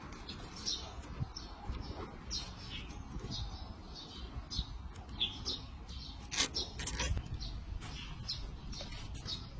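A bird chirping over and over, short high chirps about two a second, with two sharp clicks a little past halfway.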